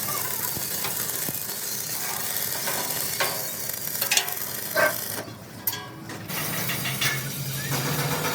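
Metalworking noise: a steady hiss with scattered metallic clicks and knocks, briefly dropping away in the highs about five seconds in.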